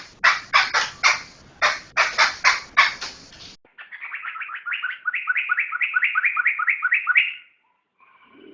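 A poksay (laughingthrush) singing: first a run of harsh, scratchy chattering notes, then a fast series of repeated whistled notes that grows louder before stopping abruptly, with a few faint notes near the end.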